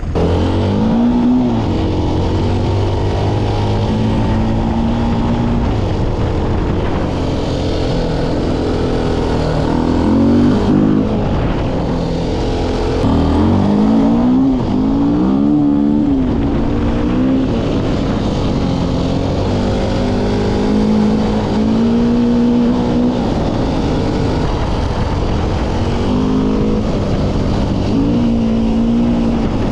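KTM 400 EXC enduro motorcycle's 400 cc single-cylinder four-stroke engine running under way, its pitch rising and falling as it revs and changes gear, with a run of quick rev-ups about halfway through.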